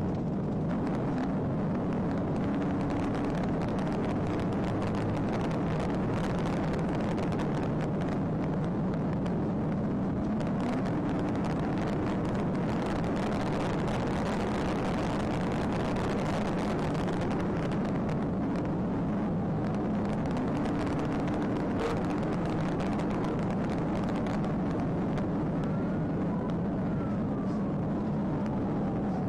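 Steady engine and road noise of a vehicle driving at speed, the engine pitch stepping up a couple of times. A police siren starts wailing near the end.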